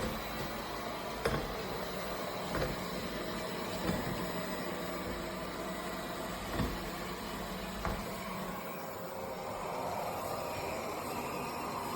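Robot vacuum cleaner running with a steady whir of suction motor and brushes, with several short light knocks spread through.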